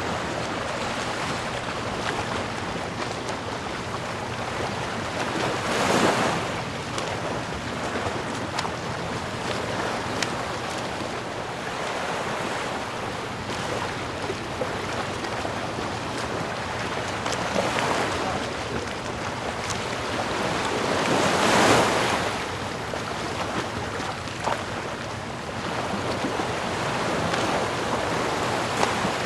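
Sea waves washing in a steady, continuous surf, with one wave breaking louder about six seconds in and another, the loudest, about two-thirds of the way through.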